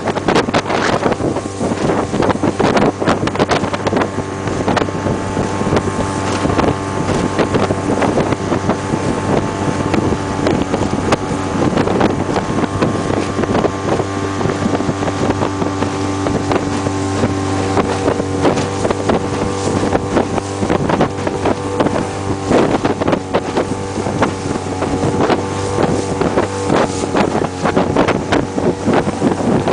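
2006 Suzuki 15 hp four-stroke outboard running at a steady speed with the boat under way. Wind buffets the microphone in gusts over the engine note.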